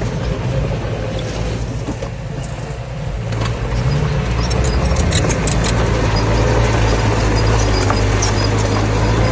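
Diesel engine of a heavy earthmoving machine running under load. It grows louder and rises a little in pitch about three and a half seconds in, then holds steady, with sharp metallic ticks and clanks in the second half.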